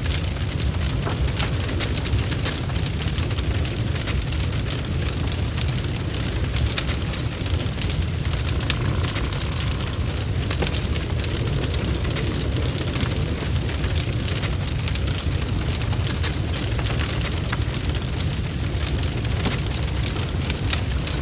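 Crackling fire: a steady low rumble of flames with many small sharp pops and snaps throughout.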